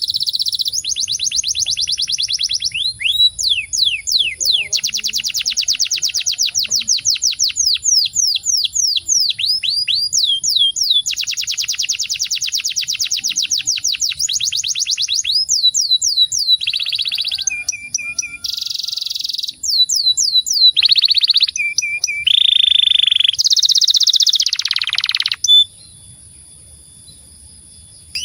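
Domestic canary singing a continuous rolling song: long, fast trills of rapidly repeated notes alternate with runs of quick down-slurred notes and short buzzy phrases that shift in pitch. It stops abruptly about 25 seconds in.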